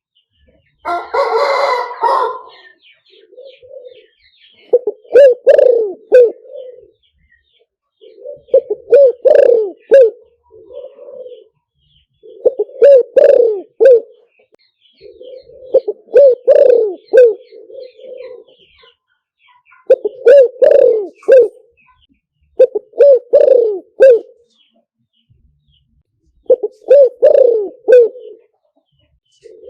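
Spotted dove cooing: low, throaty coo phrases repeated every few seconds, a lure call for drawing wild doves to a trap. A louder, harsher call stands out about a second in.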